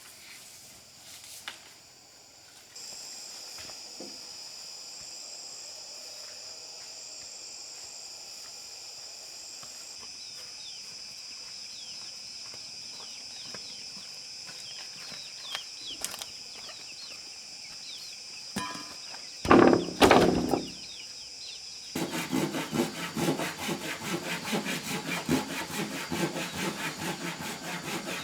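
Wood being sawn by hand in rapid, rasping strokes, starting about three-quarters of the way in. Before that there is a steady high-pitched drone and two loud thumps.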